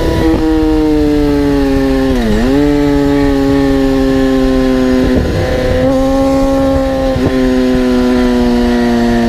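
A vehicle engine running at high revs, its pitch dipping sharply and coming back about two seconds in, then easing slowly lower.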